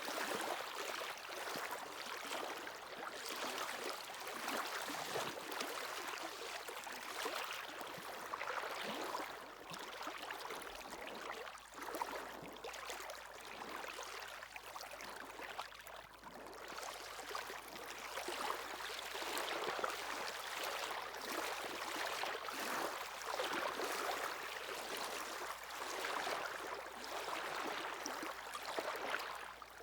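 Sea waves washing onto the shore: a steady rushing hiss that swells and eases.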